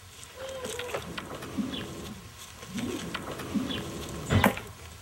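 Farmyard birds calling: several short, low calls spread through, with one sharp knock about four and a half seconds in.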